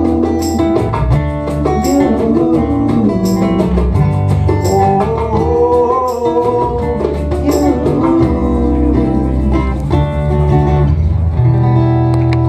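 Acoustic guitars playing an instrumental passage of a song, strummed chords with a melodic line over them and a light, bright tick about every second and a half.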